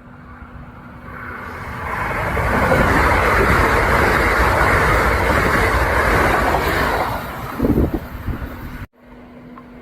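Kintetsu electric train passing at speed: the rail and wheel noise swells over about two seconds, holds loud for several seconds, and gives a few sharper clacks near the end before cutting off suddenly.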